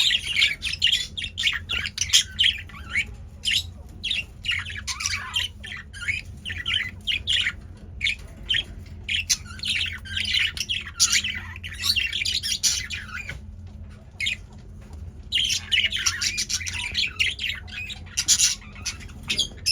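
Several male budgerigars in a cage chattering and squawking in quick, high chirps, busiest near the middle and again toward the end, over a steady low hum.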